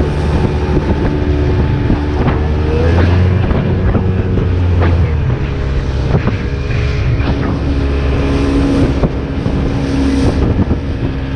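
Boat's outboard motor running hard, pushed toward full throttle to check that it runs right after a repair. Wind is blowing on the microphone, the engine note shifts about two seconds in, and there are a few sharp knocks.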